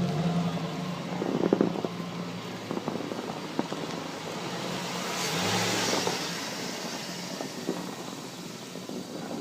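Stock exhaust of a 2007 Chevy Silverado's 5.3-litre V8, heard at the tailpipe: the engine drops back from a rev and runs near idle, with one short rise in revs about five seconds in.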